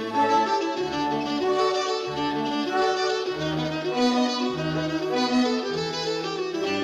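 A string orchestra plays a movement of a piece: violins hold sustained notes over a bass line of cellos and double basses that steps to a new note roughly every second.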